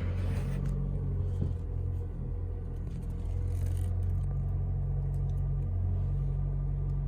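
A 2023 Toyota Corolla's engine idling, a steady low rumble heard from inside the cabin just after it is switched on.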